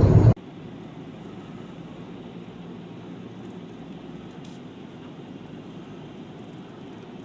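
Steady, even truck engine noise with no distinct events, starting abruptly a moment in where louder sound cuts off.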